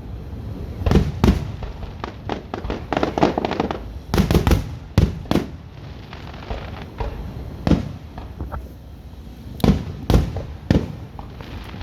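Fireworks display: aerial shells bursting in an irregular series of sharp bangs, a dozen or so, with a run of rapid crackling about three seconds in.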